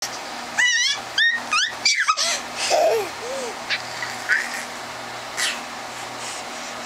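A dog making a quick run of short, high, wavering yips and whines as it attacks a toy monkey, then a few lower whines about three seconds in.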